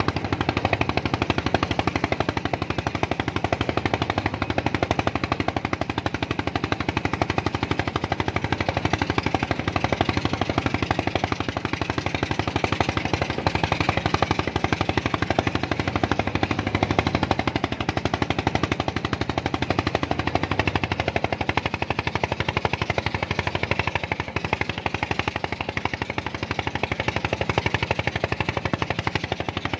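A small engine running steadily, with a rapid, even knocking beat.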